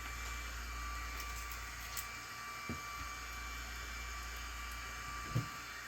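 Steady background hiss with a faint thin hum, broken by a few faint light clicks: one about two seconds in, another shortly after, and a slightly louder one near the end.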